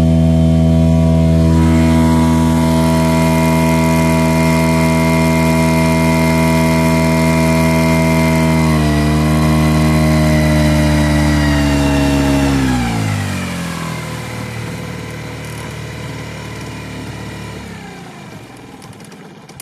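Parus 5 hp two-stroke outboard motor running at steady revs, with a slight dip about nine seconds in. About twelve seconds in the revs drop sharply with a falling pitch, and the motor then runs much more quietly at very low revs.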